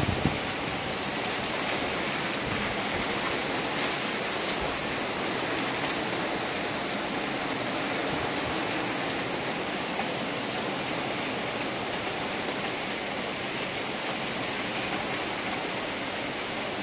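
Heavy rain pouring down in a thunderstorm: a steady, dense hiss with scattered sharp ticks of drops striking close by.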